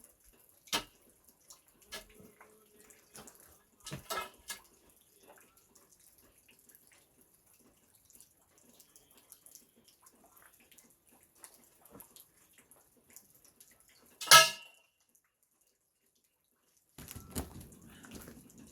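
Scattered knocks and clatters of objects being handled, with one loud, briefly ringing clank about fourteen seconds in, and a low rumbling noise coming in near the end.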